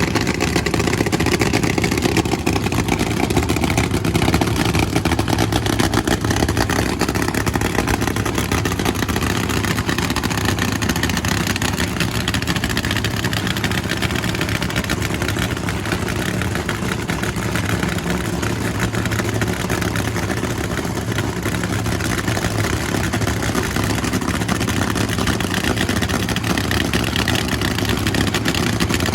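Drag-racing funny car's V8 engine running steadily and loud, its pitch holding roughly level throughout with no full-throttle pass.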